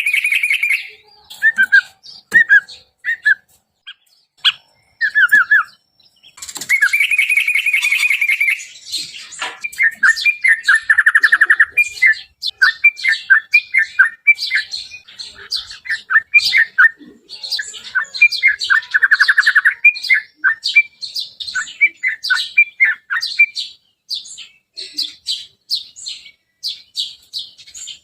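Sooty-headed bulbuls singing: quick runs of short chirps and whistled notes mixed with harsh, buzzy chattering phrases, sparse for the first few seconds and nearly continuous from about six seconds in.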